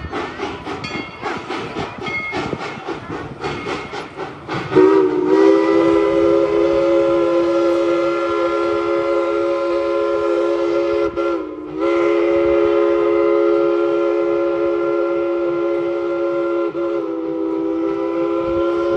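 A rapid, rhythmic clatter of the moving steam train, then, about five seconds in, its steam chime whistle sounds one loud, long chord of several notes. The chord is held to the end, broken only by a brief dip about eleven seconds in.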